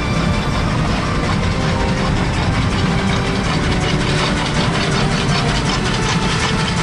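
Steam locomotive C-108 working, a loud, steady rush of exhaust and running noise with rapid beats throughout.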